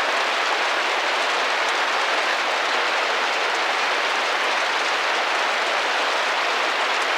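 Steady rain drumming gently against a window pane: an even hiss with a few faint ticks of single drops.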